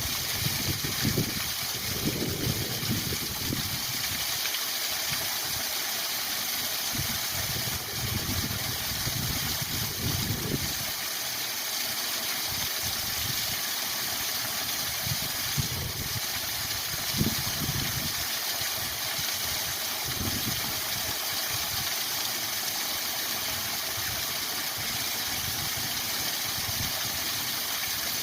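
Waterfall rushing steadily, a constant even hiss of falling water, with low rumbles that come and go every few seconds.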